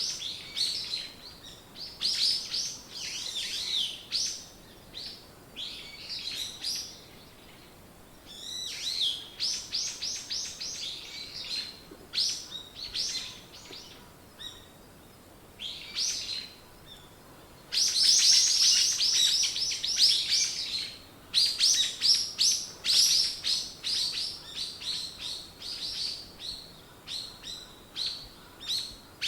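Small songbirds chirping and singing: phrases of quick high notes with short pauses between them, loudest about two-thirds of the way through.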